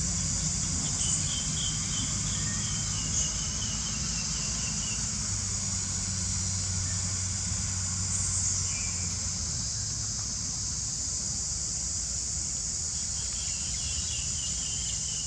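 Steady, high-pitched chorus of insects, crickets or cicadas, with short chirping trills twice, near the start and again near the end, over a low steady hum.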